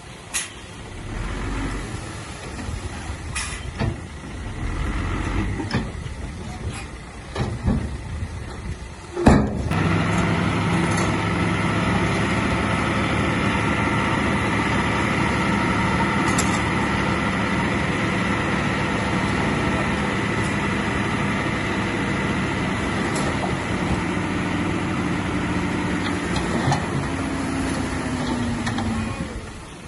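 Heavy diesel earthmoving machinery working: for the first nine seconds an engine runs quietly with scattered clanks and knocks, then after a sharp knock a loud, steady diesel engine runs until near the end, where its pitch drops away.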